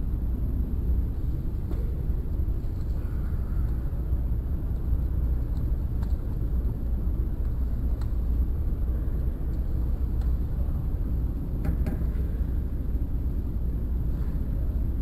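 Steady low rumble with a few faint clicks, one pair about twelve seconds in.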